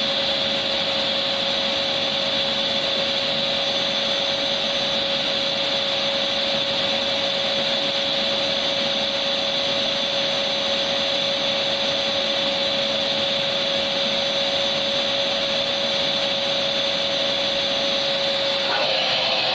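Vacuum cleaner motor running steadily, a constant hiss with a steady whine. Near the end the sound changes abruptly, the whine dropping out.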